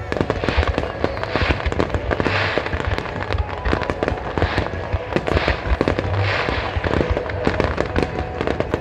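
Fireworks finale barrage: aerial shells bursting in rapid, overlapping bangs, with bursts of crackling about once a second.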